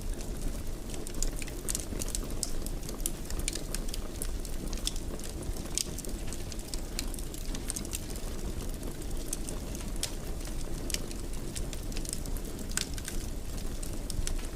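A wood fire burning in a fireplace: a steady low rumble with frequent, irregular crackles and pops.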